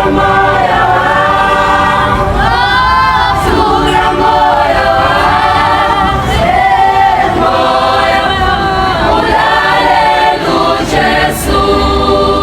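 A group of voices singing together like a choir, sustained sung notes with no instruments standing out.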